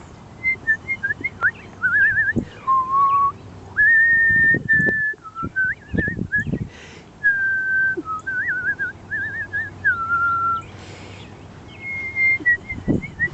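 A woman whistling to call cardinals: a string of clear whistled notes, some held steady and some quickly warbled, with short pauses between them. A few soft low thumps sound underneath.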